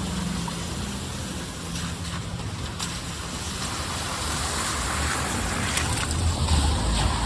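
Steady rush of heavy rain and floodwater, with a low rumble, typical of traffic, that grows louder in the second half.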